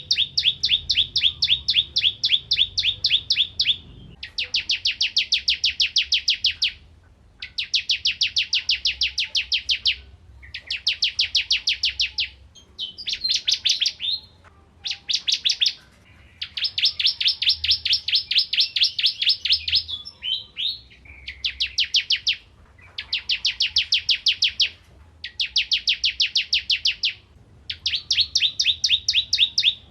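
Ciblek kristal, a prinia, singing in full voice: phrase after phrase of rapid, evenly repeated high notes, each burst lasting a second or few, with short pauses between.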